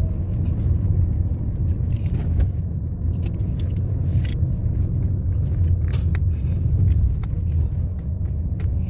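Car on the move: a steady low rumble of engine and road noise, with a few light clicks and rattles.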